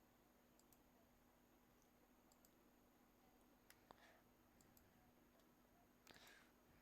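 Near silence with faint computer mouse clicks, some in quick pairs, over a faint steady electrical hum.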